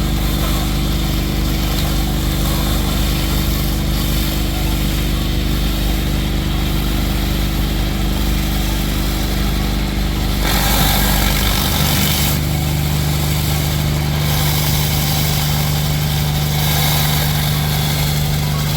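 Engine-driven pressure washer running steadily, with the hiss of high-pressure water spray; the engine note changes about eleven seconds in.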